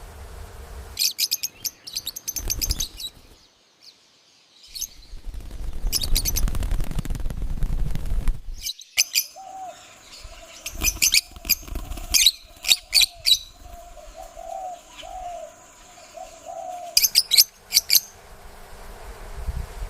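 Small parrots (lovebirds and a budgie) chirping in several bursts of rapid, shrill chirps. A low rumble runs under them for a few seconds around the middle, and a wavering mid-pitched call carries on for several seconds after it.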